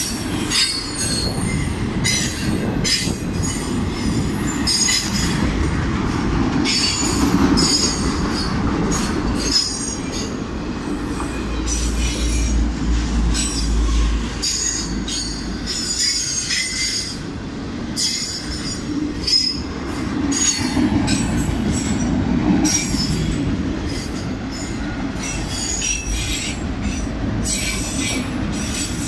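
CSX freight train cars rolling past, with wheels squealing on and off at a high pitch over a steady rumble and repeated clicks from the wheels on the rails.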